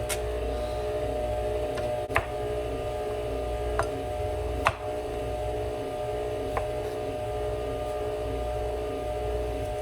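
Steady kitchen hum with a low rumble, broken by five sharp knocks spread over the first seven seconds, typical of a knife or utensil striking a cutting board or counter.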